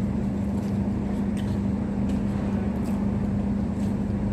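Steady mechanical hum with one constant low tone over a dense rumble, and a few faint clicks over it.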